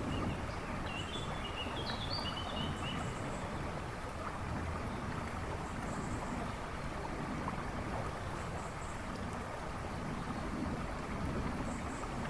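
River rushing and babbling steadily. A songbird gives a short run of chirps in the first few seconds, with faint high chirps from other birds behind.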